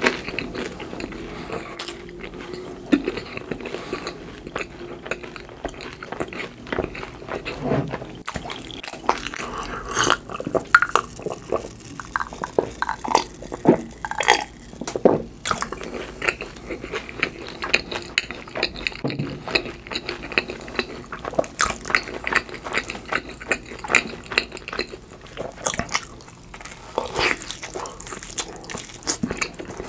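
Close-miked eating sounds: wet chewing of cheese pizza, with gulps of a drink swallowed from a glass around the middle and a bite into a pizza slice near the end.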